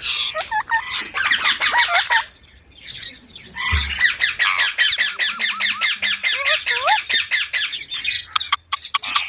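Green parrot squawking in rapid, harsh chatter: two long runs of quick rising calls with a break of about a second and a half between them. A short low thump comes just before the second run.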